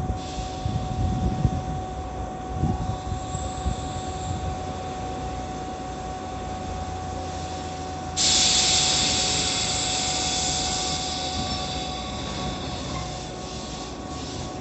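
Tobu 8000-series electric train standing at a station platform with a steady low rumble and a constant hum. About eight seconds in, a sudden loud hiss of compressed air from the train's pneumatic system bursts out and fades away over several seconds.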